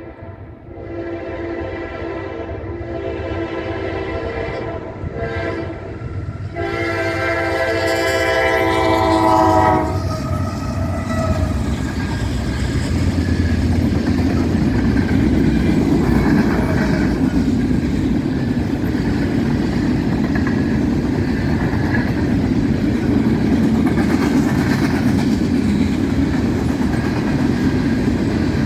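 Norfolk Southern freight locomotive's horn sounding in long blasts, the last and loudest one cutting off about ten seconds in, falling slightly in pitch, as the train passes at speed. Then the steady rumble and clatter of the gondola cars' wheels on the rails.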